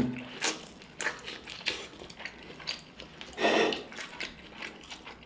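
Close-up chewing of a mouthful of buttered corn on the cob: a run of wet, crunchy chews and lip smacks, with a louder, brief vocal sound about three and a half seconds in.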